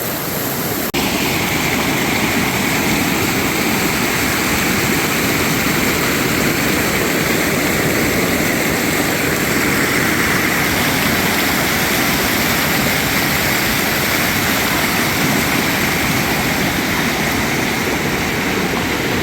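Steady, loud rushing of flowing water, like a fast stream or waterfall. There is a brief break about a second in, after which it continues unchanged.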